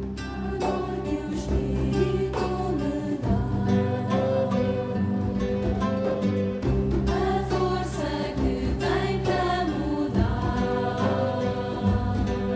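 Background music: a choir singing a religious song over sustained instrumental accompaniment.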